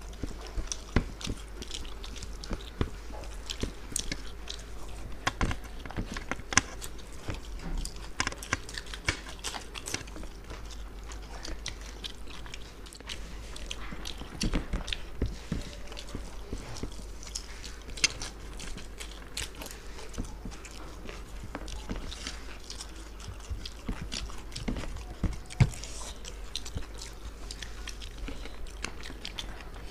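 Close-miked eating sounds of two people chewing mouthfuls of mutton biryani eaten by hand, with many short sharp clicks throughout.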